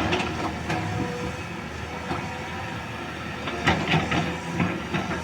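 Caterpillar 320D excavator working: its diesel engine running steadily, with a few sharp metallic clanks and knocks from the machine.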